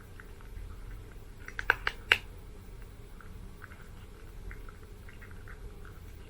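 A cat crunching dry food, with many faint crisp crunches and a few sharper clicks about two seconds in.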